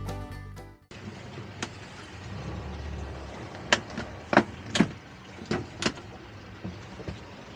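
Background music cuts off about a second in, leaving a steady rush of wind and water over which come about six sharp knocks and clicks, spaced irregularly and bunched in the middle.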